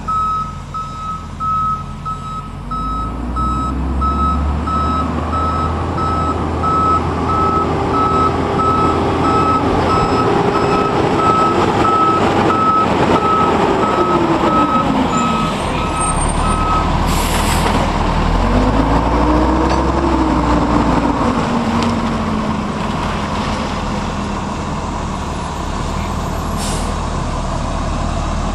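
Garbage truck backing up with its reverse alarm beeping steadily while the diesel engine revs up, holds high and drops back down. The beeping stops after a sharp air-brake hiss over halfway through. The engine then revs up and down once more, and there is a second short hiss near the end.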